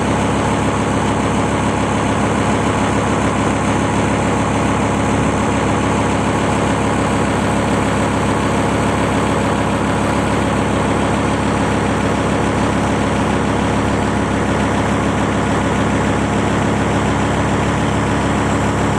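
A motor ship's engine running steadily, a deep even hum with a rumble above it that does not change.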